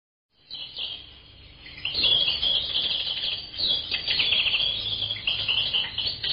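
Wild birds chirping and singing, many quick overlapping calls like a forest dawn chorus. It starts softly about half a second in and grows louder about two seconds in.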